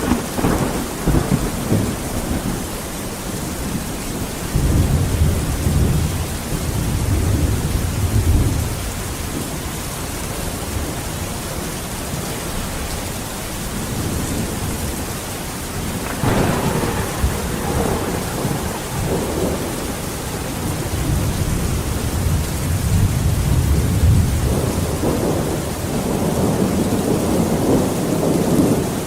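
Steady heavy rain with rolling thunder: a crack just after the start and another about midway, each followed by long low rumbles that swell and fade several times.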